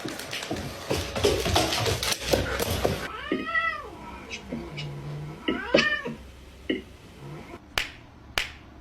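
A cat meowing twice, each meow rising and then falling in pitch, after a few seconds of busy clatter. Two sharp clicks follow near the end.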